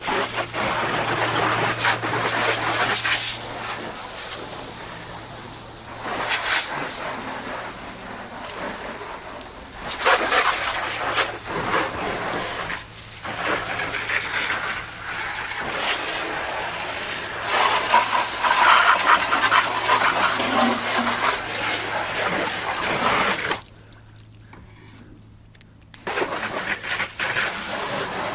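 Water spraying in long, uneven passes, with a steady low hum underneath. The spray stops for about two seconds near the end, then starts again.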